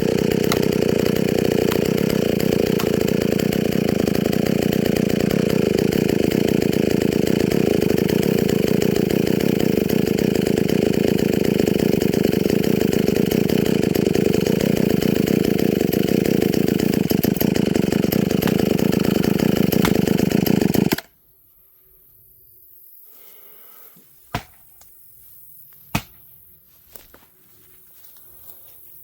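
Vintage Pioneer chainsaw's two-stroke engine running steadily, then stopping abruptly about two-thirds of the way through. A few sharp knocks follow in the quiet.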